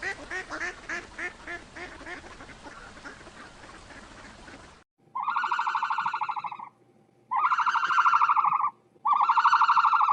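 Ducks quacking in a fast run of calls. After a sudden cut, three long buzzy calls from another animal follow.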